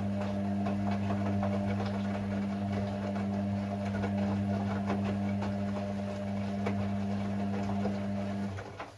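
Hoover Six Sportswear 1300 washing machine giving a steady electric hum, with small ticks and water noises over it, that cuts off shortly before the end.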